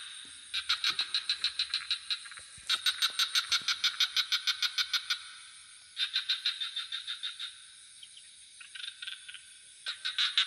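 Frogs calling in rapid pulsed trills, about eight pulses a second, in bouts of one to two seconds with short pauses between. A steady high insect drone runs underneath.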